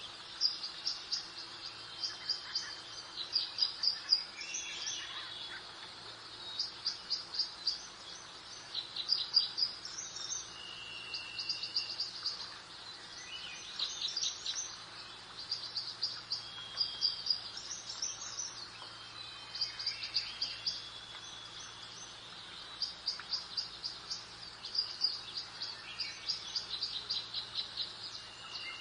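Birdsong: several birds singing, with repeated runs of quick high-pitched chirps and short trills and a few lower whistled notes, over a faint steady background hiss.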